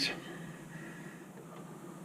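Hydraulic oil pouring into a John Deere 1025R tractor's housing, a faint steady trickling hiss.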